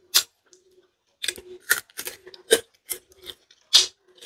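Close-miked chewing of a crunchy unripe green tamarind pod: a string of sharp crunches and wet mouth clicks with short pauses between them.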